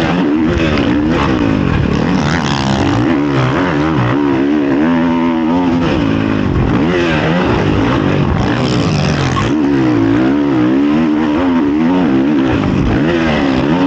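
Honda CRF450 motocross bike's single-cylinder four-stroke engine heard onboard, revving up and down again and again as the throttle is opened and shut and the gears change.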